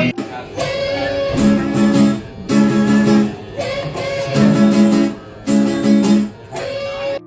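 Music on a strummed guitar, chords played in a repeating rhythm.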